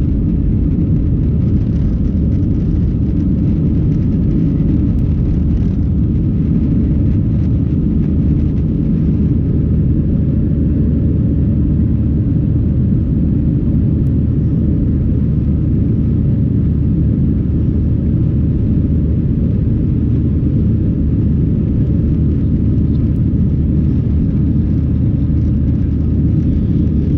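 Steady low rumble of an Airbus A319's engines and airflow heard inside the cabin, unchanging throughout.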